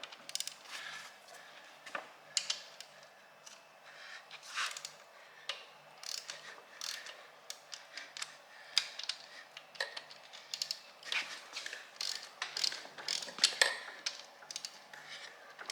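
Ratchet wrench clicking in short, uneven bursts as cylinder head bolts are loosened a little at a time.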